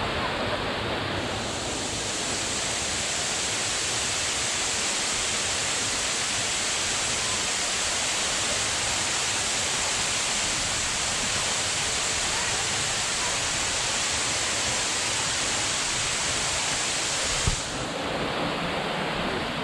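Steady rush of a waterfall. A brighter, hissier layer comes in about a second in and cuts off suddenly near the end, with a short knock at that moment.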